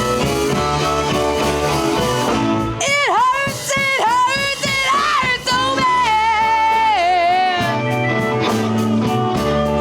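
Live blues band playing an instrumental passage: bass, drums and chords underneath, with a lead line of bending, sliding, wavering notes coming in about three seconds in.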